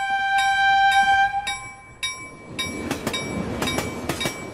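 Train sounds: a horn blows one steady note for about two seconds, then wheels start clacking over rail joints in a quick, even rhythm.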